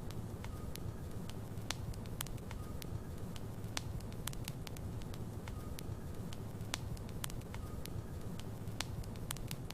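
Logs burning in a fireplace: a steady low rumble of the fire with frequent, irregular sharp crackles and pops from the wood.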